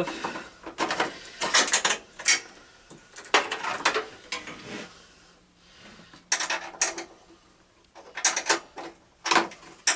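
Metal hand tools clattering and rattling in short bursts, about five times.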